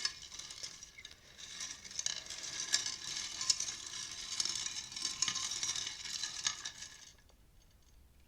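Reading cards shuffled by hand: a dry, crackly rustle with quick little clicks that runs for about six seconds and stops about a second before the end.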